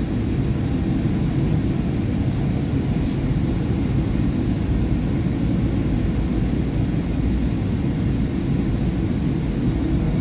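SEPTA Market-Frankford Line M-4 train car running along the track, a steady loud rumble of wheels and motors.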